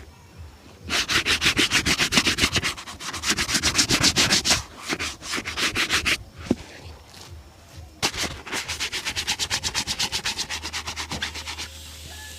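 A shoe being brushed in fast back-and-forth strokes, about eight a second, in three runs with short pauses between.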